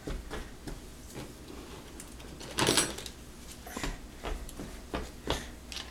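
Dishes and cutlery being handled while a dishwasher is unloaded: scattered light clinks and knocks, with one louder, ringing clatter about two and a half seconds in.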